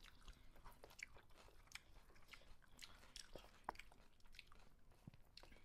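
Faint chewing with scattered small clicks and smacks as two people eat biryani with their hands from steel plates.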